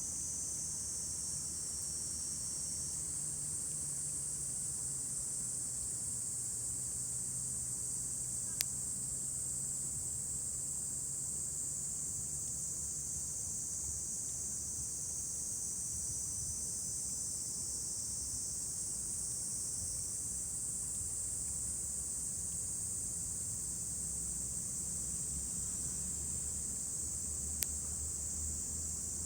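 Steady high-pitched chorus of insects chirring. A burning wood fire gives two sharp single pops, about a third of the way in and near the end, over a faint low hum.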